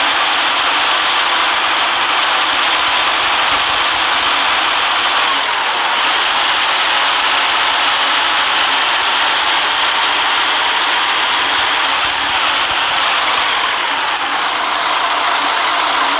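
Steady running noise of a city bus heard from a passenger seat: the engine running under a continuous hiss.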